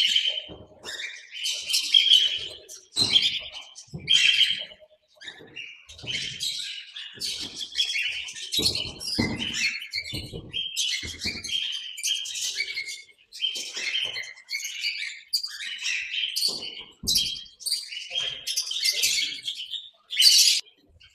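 A flock of aviary parrots chirping and calling continuously, many short overlapping high-pitched calls.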